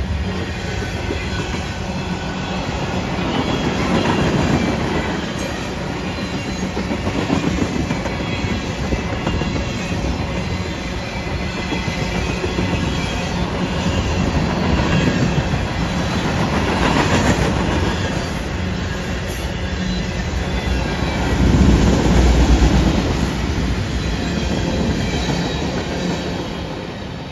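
Freight train cars rolling past, wheels rumbling and clacking on the rails in a continuous din that swells louder about three quarters of the way through.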